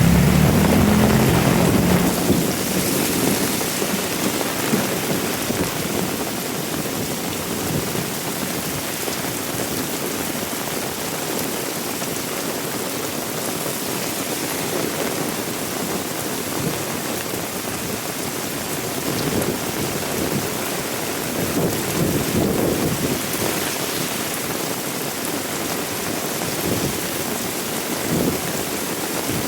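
Heavy rain pouring steadily, with a low rumble of thunder that is loudest at the start and dies away within the first two seconds.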